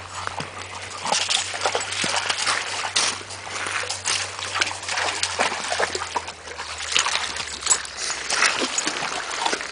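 Splashing and sloshing of shallow river water as a pug wades through it, in quick irregular splashes.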